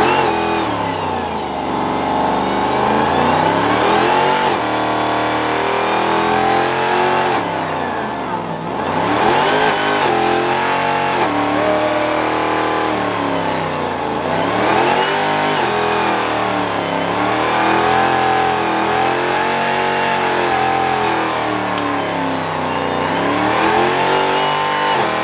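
A car engine revving hard, its pitch rising and falling again and again, over a steady high squeal, as in a burnout.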